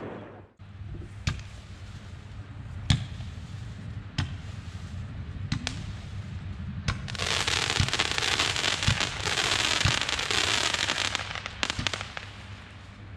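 Consumer fireworks going off: single sharp reports about a second and a half apart, then a dense crackling hiss lasting about four seconds, then a few more quick bangs near the end.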